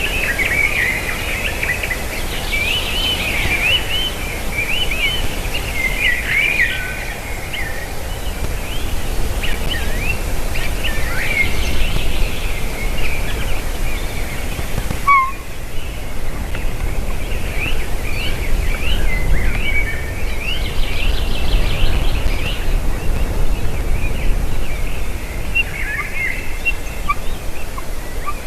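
Birds calling repeatedly: many short, quickly rising and falling chirps and whistles, some in rapid trilled runs, over a steady low rumble.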